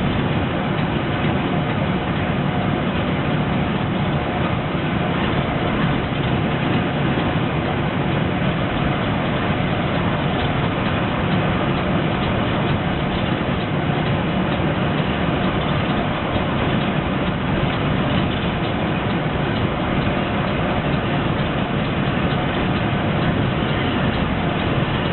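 Irizar PB coach on a Scania 340 chassis cruising on the highway, heard from the driver's seat: a steady drone of diesel engine and road noise.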